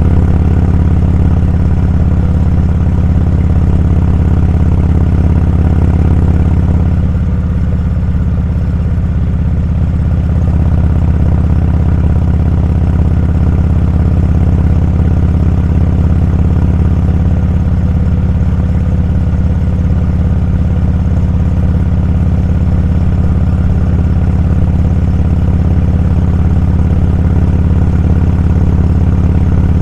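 Motorcycle engine running steadily while riding, with a low, even drone; it eases off and dips slightly in level about seven seconds in, then picks back up.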